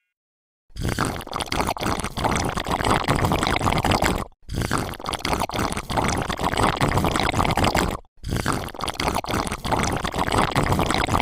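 Sand being scooped and poured by toy construction vehicles: a dense gritty pouring and scraping with many small clicks, in three stretches that each stop abruptly.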